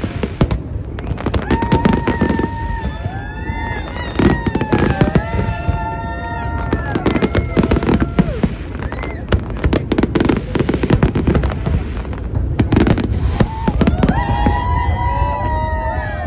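New Year's fireworks bursting in rapid, overlapping bangs and crackles over a noisy crowd. Several high, drawn-out toots from the crowd rise over it about a second and a half in, again around seven seconds and near the end.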